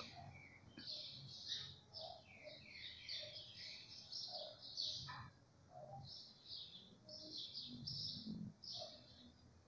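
Faint, rapid high chirping of small birds, several short chirps a second with a few quick falling notes.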